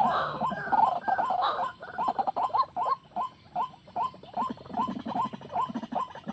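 White-breasted waterhen calling: a dense run of overlapping calls that thins, about two seconds in, into separate short rising notes in a steady rhythm, about two to three a second.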